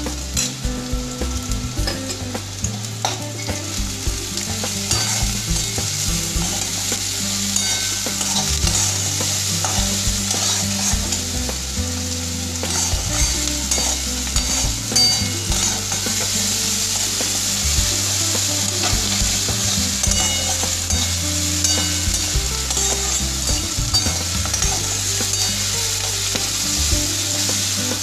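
Chopped onions sizzling steadily in hot oil in a metal kadai, stirred and scraped with a flat metal spatula, with frequent small clicks of metal on metal. The onions are being fried soft on their way to brown.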